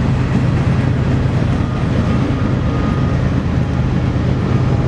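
Freight train cars rolling past, making a steady low rumble.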